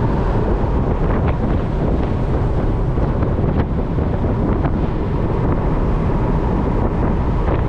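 Wind buffeting the microphone: a loud, steady low rumble and rush with no clear mechanical rhythm.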